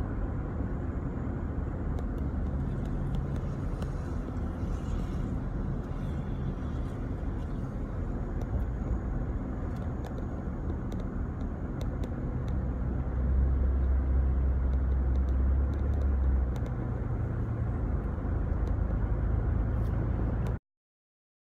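Car road noise heard from inside a moving vehicle: a steady low rumble of tyres and engine that swells for a few seconds in the middle, then cuts off suddenly near the end.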